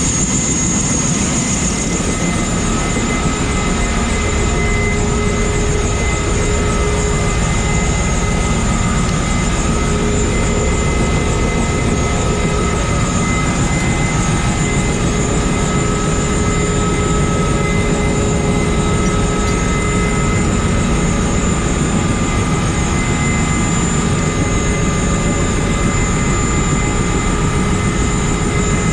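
Bell UH-1 Huey helicopter running: a loud, steady turbine whine made of several held high tones over dense low engine and rotor noise.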